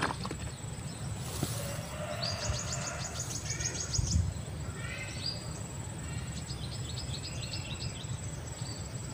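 Small birds calling: two runs of rapid, high repeated notes and a few short falling chirps. Under them runs a steady low rumble, with one low bump about four seconds in.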